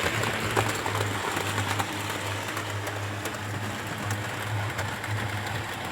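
Model railway locomotives running on the track: a low electric-motor hum that swells and fades about twice a second, with light clicking from the wheels over the rails.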